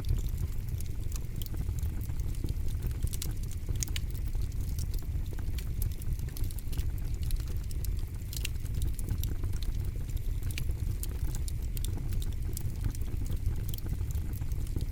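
Wood campfire crackling, with frequent sharp, irregular snaps and pops over a steady low rumble.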